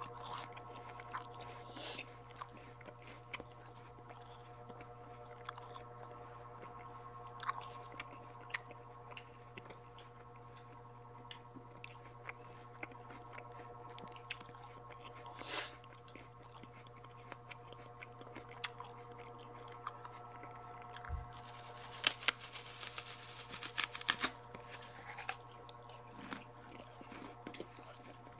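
Close-up mouth sounds of someone eating santol fruit: chewing and biting the pulp, with scattered small clicks. There are sharper, louder bursts about 2 and 15 seconds in, and a busy run of them about three quarters of the way through. A steady low hum lies under it throughout.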